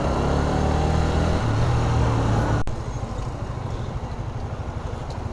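Single-cylinder Honda CBR125R motorcycle engine running under way, its note dropping suddenly about halfway through as the throttle is closed, with wind noise.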